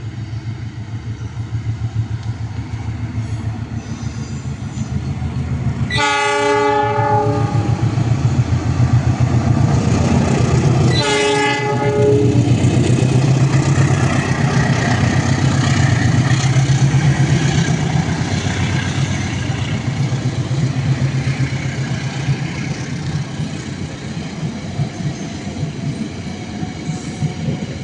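Train passing a level crossing, sounding its horn twice, each blast about a second long and about five seconds apart. A heavy rumble of the passing train swells after the first blast and eases off in the last few seconds.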